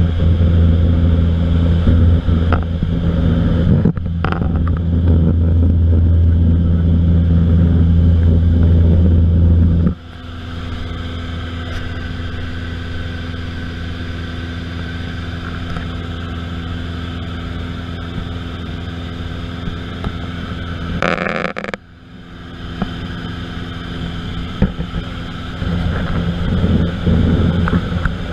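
Aircraft engine running steadily with a deep, even drone. It drops suddenly to a lower level about ten seconds in, has a brief rush of noise about three quarters of the way through, and grows louder again near the end.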